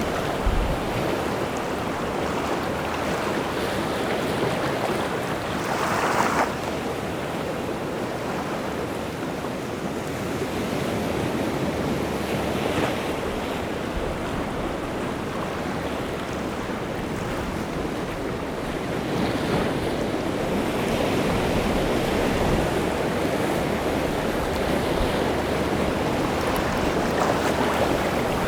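Rough sea surf breaking continuously on the shore, a steady wash of waves that swells and eases, with one louder wave crash about six seconds in.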